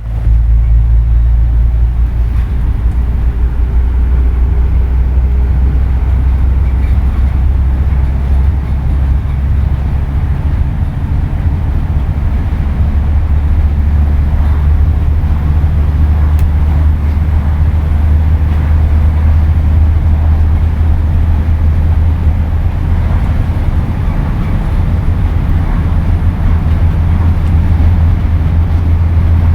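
Scania N230UD double-decker bus's diesel engine running under way, a loud steady low drone whose pitch shifts a few times.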